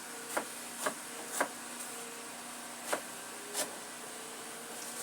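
Five short, sharp knocks from kitchen work, spaced unevenly, over a steady background hiss.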